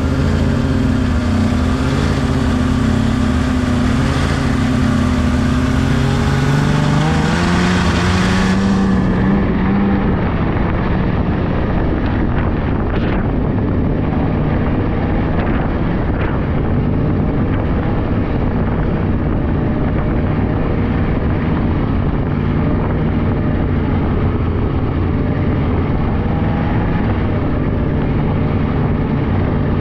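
Polaris 600cc snowmobile engine running under way, its pitch rising as it speeds up about six to nine seconds in, then holding a steady cruise.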